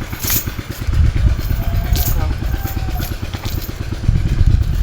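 A small engine running steadily with an even, fast firing beat, with a few sharp clicks over it.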